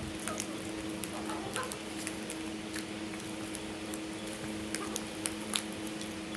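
Crows feeding, their beaks making scattered light taps and clicks between calls, over a steady low hum.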